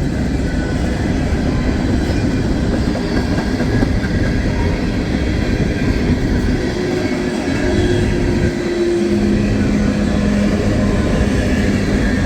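Empty three-bay coal hopper cars of a long freight train rolling past, a steady rumble of steel wheels on rail. A low steady hum joins in about seven seconds in.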